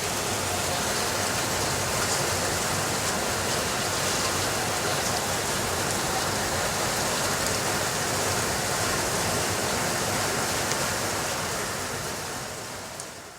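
Steady, heavy rainfall making an even hiss, fading out near the end.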